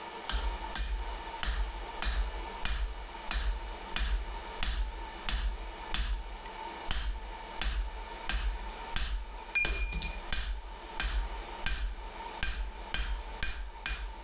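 Steady hand-hammer blows on steel, peening over the rivet of a pair of forged tongs. About one and a half strikes a second, some with a short high metallic ring, coming quicker near the end.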